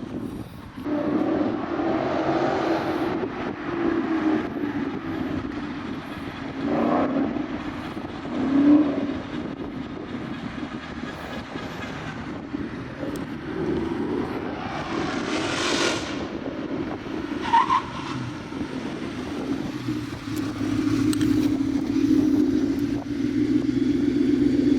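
Ford Mustang GT's 5.0 V8 running through a newly fitted MBRP exhaust, its note swelling and easing, with one rise in revs about two-thirds of the way through.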